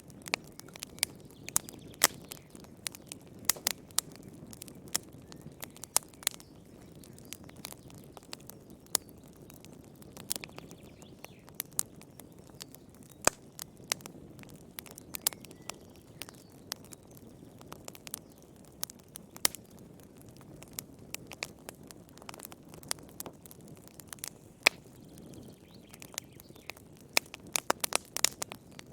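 Wood fire in a fireplace crackling: irregular sharp pops and snaps over a low, steady rush of the flames, with a quick run of pops near the end.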